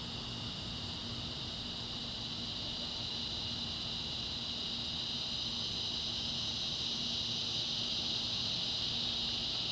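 Dense evening insect chorus: a steady, unbroken high-pitched drone that slowly grows louder, with a fainter, even higher layer above it.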